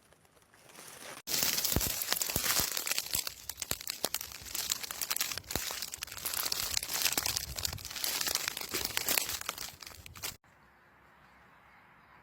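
Loud, dense crackling and crunching with many sharp clicks, as of dry leaves and twigs being disturbed. It starts abruptly a little over a second in and cuts off abruptly near the end.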